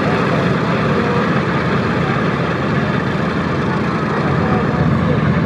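Boeing B-17 Flying Fortress's four Wright R-1820 Cyclone radial engines running steadily.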